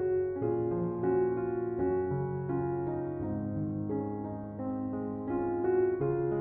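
Slow, calm relaxation music played on piano: a gentle melody of notes changing every half second or so over held low notes.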